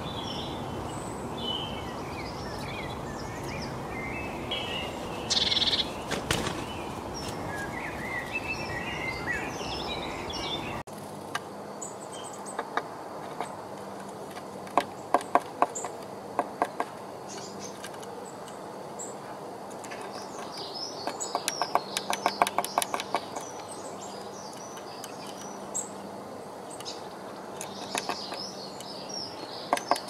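Small songbirds chirping over outdoor background noise. After about 11 seconds, quick runs of sharp taps join in: a tit pecking at the wooden rim of a nest-box entrance hole.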